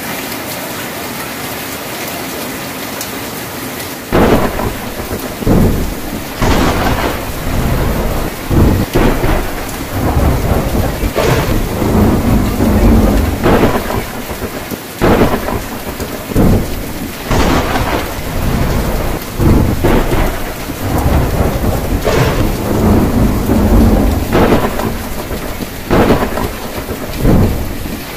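Steady rain drumming on a tin roof, joined about four seconds in by a run of loud thunderclaps and rumbles that recur every second or two.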